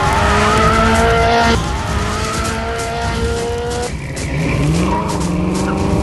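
Car chase sound effects: cars running hard with long, steady tyre squeals. The sound drops abruptly to a quieter layer about a second and a half in, and an engine revs up with rising pitch near the five-second mark.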